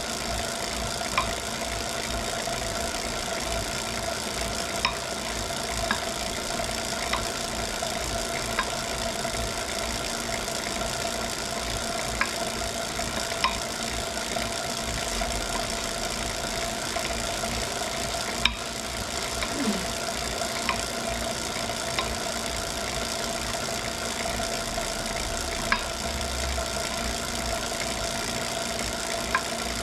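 Wahoo Kickr Core smart trainer running with a steady whine, broken by sharp knocks at irregular gaps of one to several seconds: the unwanted knocking noise the trainer has developed.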